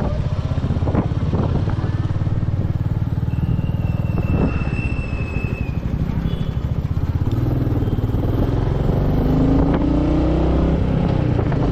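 Royal Enfield Meteor 350's single-cylinder engine running while riding, its pitch rising as it accelerates in the second half. A thin high tone sounds for about two seconds starting about three seconds in.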